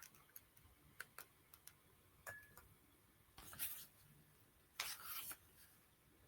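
Near silence with a few faint clicks and two soft rustles of comic-book pages being handled and turned, one about three and a half seconds in and one about five seconds in.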